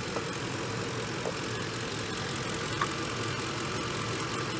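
Ford F-150 3-valve V8 idling steadily with a noise that the owner hears as more than just timing-chain rattle, the sign of a worn engine needing a rebuild.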